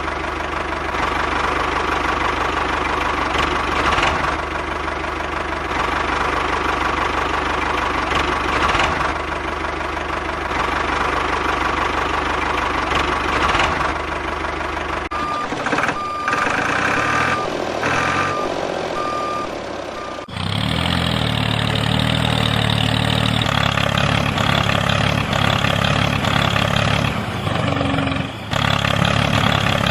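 Steady engine-like mechanical running with a regular pulsing swell. In the middle comes a series of short reversing beeps, and then the running sound changes abruptly to a lower, deeper engine note.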